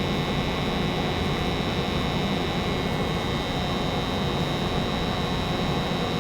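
American Standard 90% gas furnace running at steady state, burners lit with the circulating blower and inducer going: a steady rush of air over a low hum, with a thin steady high whine on top.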